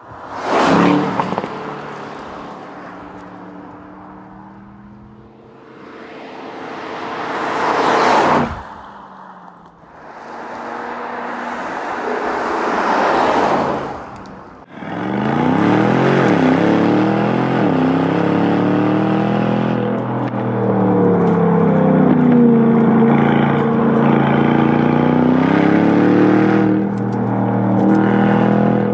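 Aston Martin DBX 707's twin-turbocharged 4.0-litre V8 exhaust: a sudden loud burst that dies away, then two runs that swell and cut off abruptly. About halfway in, a long loud stretch of driving follows, with the engine pitch rising and falling.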